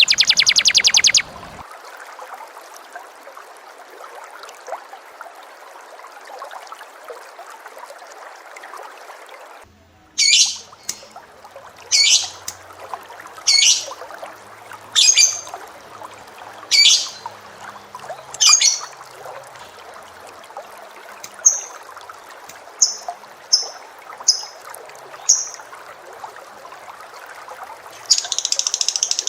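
Lovebird and canary song: a fast trill that breaks off about a second in, then a run of about eight loud, shrill calls about a second and a half apart, then five short, higher chirps, with another fast trill starting near the end.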